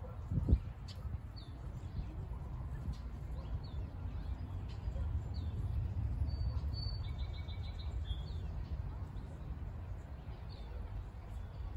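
Small birds chirping, short high calls repeating on and off, over light rain falling on a pond and a steady low rumble. A brief low thump about half a second in.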